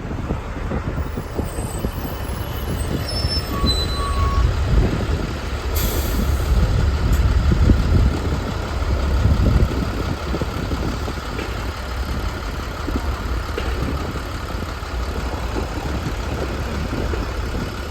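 NefAZ-5299 city bus running with a deep, steady rumble that swells a little in the middle, with a short hiss of released air about six seconds in.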